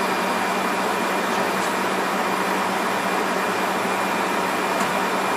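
Steady cockpit noise of a Fokker 100 airliner in flight: an even rush of airflow and air-conditioning hiss with a faint steady hum underneath.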